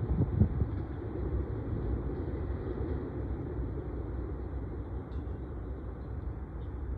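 Freight cars of an intermodal train rolling past, a steady low rumble of wheels on rail, with a few low thumps right at the start.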